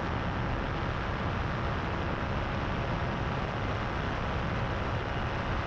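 Power2Fly paramotor's engine and propeller running steadily in flight, heard as an even, unbroken drone.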